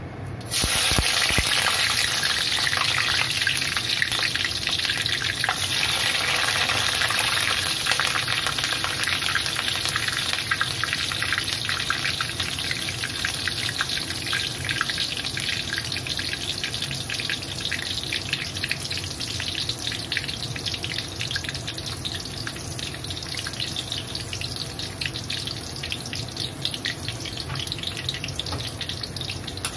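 Garlic slices and red chillies frying in hot oil in a wok: a loud sizzle that starts abruptly about half a second in, full of fine crackling pops, easing gradually as it goes on.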